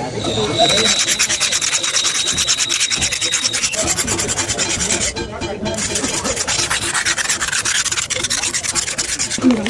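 A surface being rubbed down by hand with fast, continuous rasping strokes, like filing or sanding, as part of a broken mirror repair, with a short pause about five seconds in.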